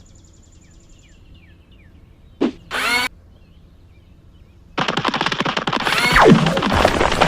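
Layered action sound effects from a robot battle: faint mechanical ticking and small falling chirps, a short zap and a rising whine around two and a half seconds in, then from about five seconds a loud, rapid, dense rattle like machine-gun fire with falling whistles.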